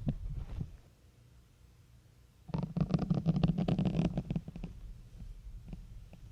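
A syringe being pushed into a soft foam sponge close to the microphone: a dense, crackling squeak lasting about two seconds, starting a couple of seconds in, after a brief faint crackle.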